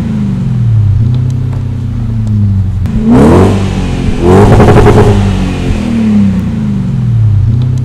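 BMW 535i E39's 3.5-litre V8 running through an aftermarket Magnaflow exhaust. It is blipped twice, briefly about three seconds in and then longer about four and a half seconds in, before dropping back to a low rumble.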